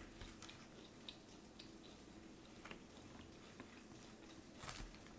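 Faint close-up chewing of a mouthful of Caesar salad, with a few soft crunches scattered through, the loudest near the end.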